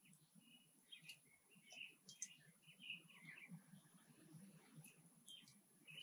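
Faint songbird chirping: many short high notes in quick runs for the first three seconds or so, then fewer, with a few more near the end.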